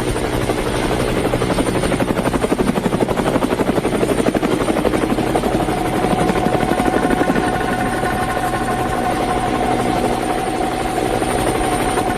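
Military helicopter running, with rapid, even rotor beats and a steady high turbine whine; a steady mid-pitched tone joins about halfway through.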